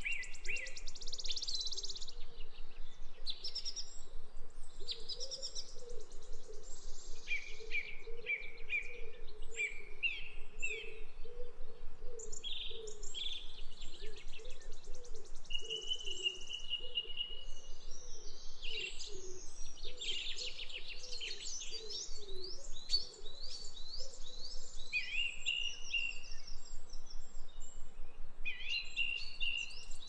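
Birds chirping and twittering: many short, quick calls and rapid sweeping notes, with a lower wavering sound underneath.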